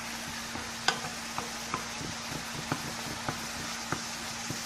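Minced garlic frying in butter in a pan: a steady sizzle with irregular sharp pops and crackles, the loudest about a second in, as it cooks toward golden brown. A faint steady low hum runs underneath.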